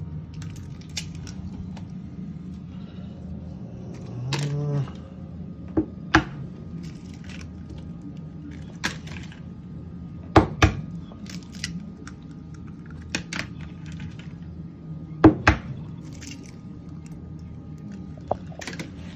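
Four eggs being cracked against the rim of a bowl one after another: sharp taps and clicks a couple of seconds apart, over a steady low hum.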